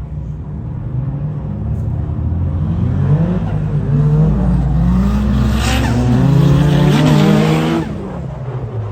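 Car engine revving hard, its pitch climbing and falling several times as it grows louder, then dropping off abruptly near the end.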